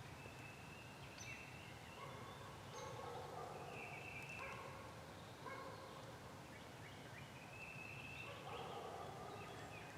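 Faint turkey calls: a series of short pitched calls, one after another.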